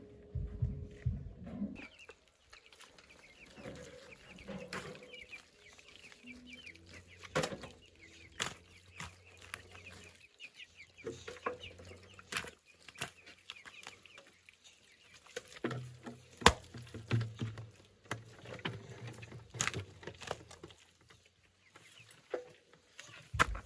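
Chickens clucking, with scattered sharp knocks and clacks throughout, the loudest about two thirds of the way in.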